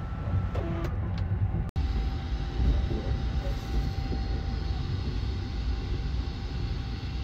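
Steady low rumble of the Sunrise Seto sleeper train, a 285 series electric train, running, heard inside a compartment. There are a few light clicks near the start, and the sound drops out for an instant about two seconds in.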